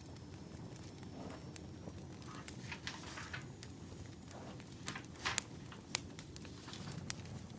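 Burning firewood crackling, with sharp pops and snaps at irregular intervals over a steady low rumble.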